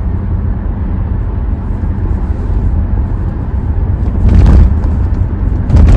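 Hyundai Tucson driving, heard from inside the cabin: a steady low rumble of engine, exhaust and road noise, with two brief louder thumps, one about four seconds in and one near the end.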